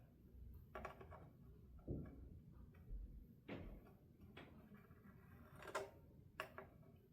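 Faint, light clicks of a metal fret rocker being set on and rocked across electric guitar frets, about six scattered taps, while checking for high frets.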